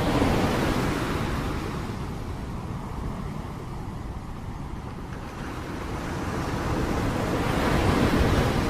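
Steady rain noise that swells at the start, eases off through the middle and swells again near the end.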